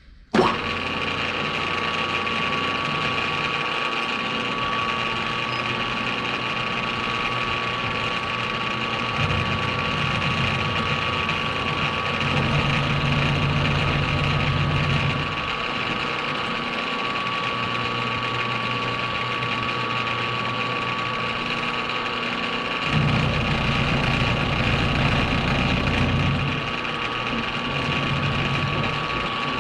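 Metalworking machine tool starting up suddenly and running steadily with a constant whine; a heavier low hum comes in twice for several seconds.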